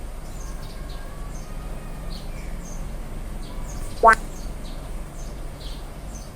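Cartoon garden ambience with faint birds chirping, and a short, loud rising blip about four seconds in from a tap sound effect in the hut-building game.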